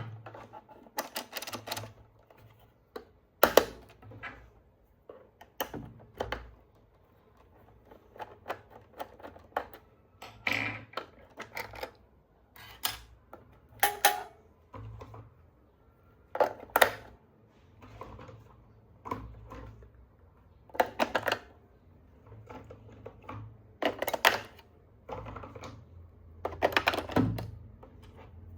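Scattered sharp clicks and knocks at an uneven pace with short pauses between them, typical of hard plastic toy parts and packaging being handled.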